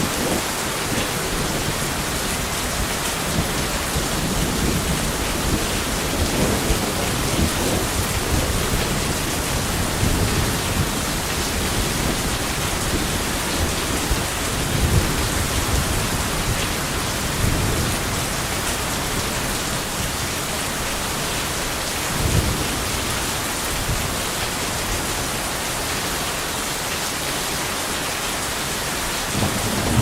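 Steady heavy rain with thunder rumbling low underneath, swelling now and then, loudest about halfway through.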